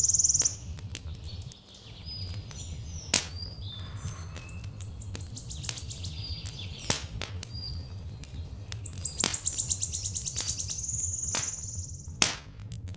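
Wood fire crackling with scattered sharp pops, over birds chirping. A high buzzing trill sounds at the start and again from about nine seconds in, with a low steady rumble underneath.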